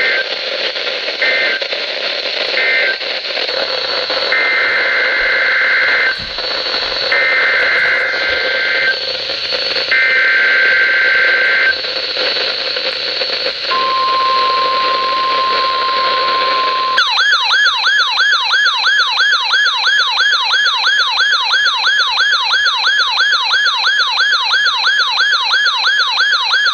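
Emergency Alert System data bursts over radio static. First come three short screeching bursts, then three longer ones, with a pause between each. A steady single alert tone sounds for about three seconds. About halfway through, a loud warbling alert tone starts, sweeping up and down about four times a second.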